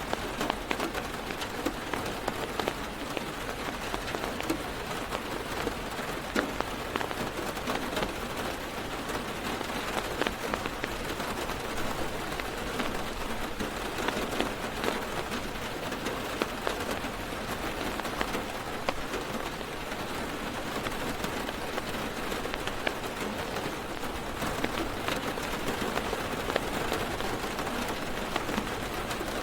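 Heavy rain falling on a car's roof and windows, heard from inside the car: a steady dense patter with many individual drops tapping sharply on top.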